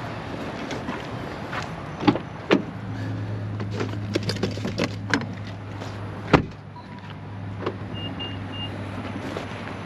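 Sharp knocks and clunks, then a steady low electric-motor hum that starts about three seconds in and keeps going, with three quick high beeps near the end.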